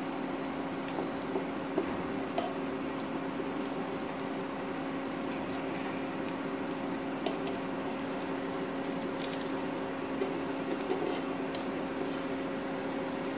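Pancake batter and ghee sizzling softly in a hot nonstick pan, over a steady electrical hum, with a few light ticks from the spatula against the pan.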